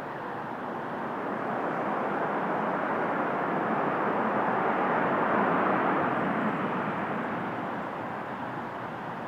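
Airbus A330-243 jet with Rolls-Royce Trent 700 engines passing on its landing: a steady jet rush that swells to a peak about halfway through and then fades.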